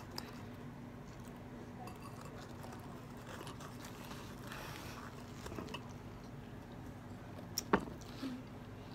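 Close-up chewing and biting as a person eats Chinese donuts, with one sharp click near the end.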